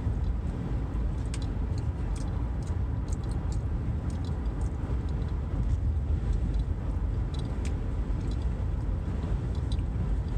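Steady low rumble of a car heard from inside the cabin, with scattered faint clicks and taps.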